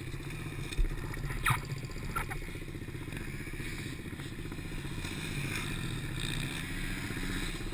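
Chinese PY90 pit bike's small engine running as it is ridden, with a few short knocks in the first couple of seconds; the engine grows a little louder later on.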